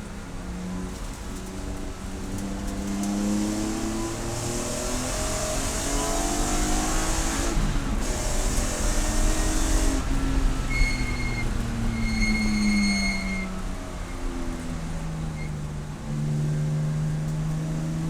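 Race car engine at full throttle, its pitch climbing through the revs, then falling back in steps as the car slows, before climbing again near the end. Midway a high steady squeal sounds twice.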